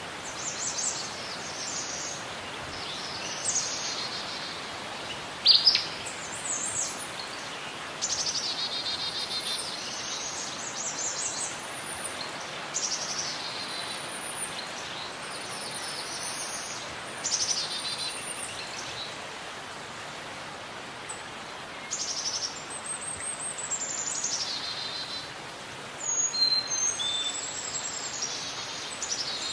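Birds singing: a run of high chirps and short phrases, several sliding downward, over a steady background hiss.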